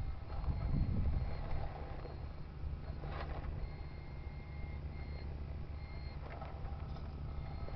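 Radio-controlled model Kamaz truck running with a steady low rumble and an on-and-off reversing beep.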